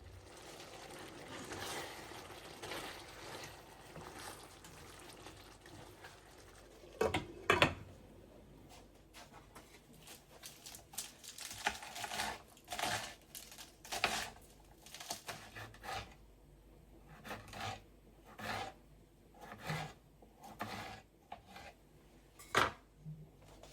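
Household handling sounds: rubbing in the first few seconds, then two sharp knocks about seven seconds in, followed by scattered light taps and clicks.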